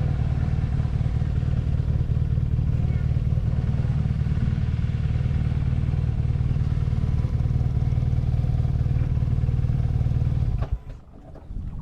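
BMW R nineT's air/oil-cooled boxer twin running steadily under way, a deep, even rumble. Near the end it cuts off abruptly, leaving only a few faint ticks.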